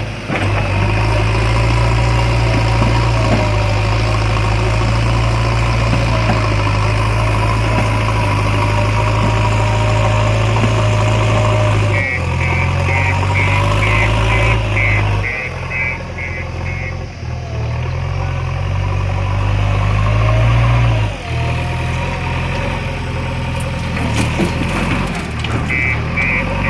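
Heavy diesel machinery running steadily, its engine note dipping and changing partway through. A backhoe loader's reversing alarm beeps rapidly, about three or four beeps a second, for a few seconds around the middle and again near the end.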